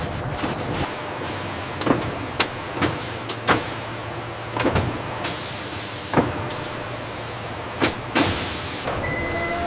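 Processing-line machinery running with a steady hum and hiss, broken by about a dozen sharp, irregular clicks and clanks. A higher steady tone starts near the end.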